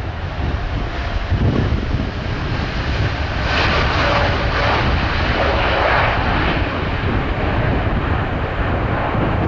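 Boeing 787-8 jet engines at takeoff thrust on departure: a loud, steady jet roar with a deep rumble, swelling fuller about three and a half seconds in as the airliner passes.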